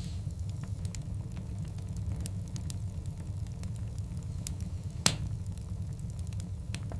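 Wood fire burning: a steady low rumble of the flames with scattered sharp crackles from the logs, and one loud pop about five seconds in.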